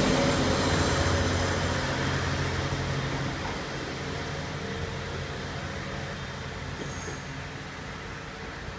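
KiHa 47 diesel railcar pulling away: the steady hum of its diesel engine fades out about three and a half seconds in, leaving the rumble of the train moving off and steadily growing fainter.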